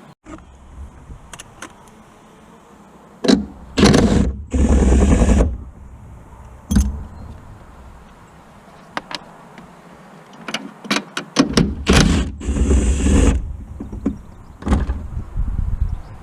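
Workshop tool sounds: a power tool runs in two short bursts of a second or two each, amid sharp metallic clanks and clicks.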